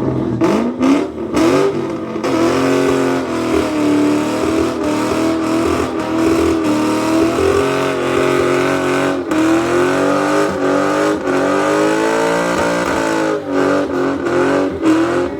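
Ford Mustang engine held at high revs, its exhaust note wavering up and down as the throttle is worked, with sharp cracks a few times.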